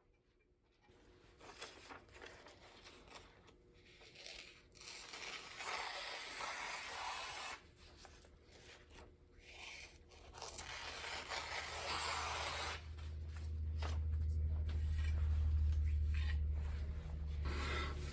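Irregular rubbing and scraping strokes, with a steady low hum coming in about two-thirds of the way through.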